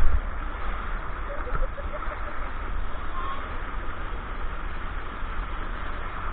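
Steady rush of wind and water on a towed banana boat ride, with heavy wind rumble on the microphone. Faint voices come through briefly a couple of times.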